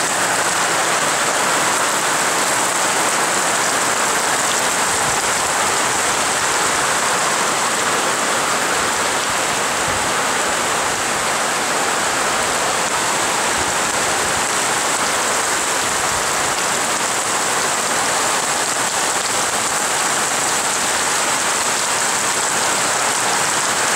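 Heavy rain pouring down steadily, a dense, even hiss that neither builds nor eases.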